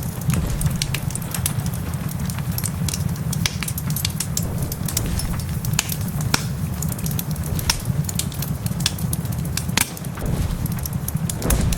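Wood fire crackling in a fireplace, with sharp pops scattered irregularly over a steady low rumble and the hiss of rain.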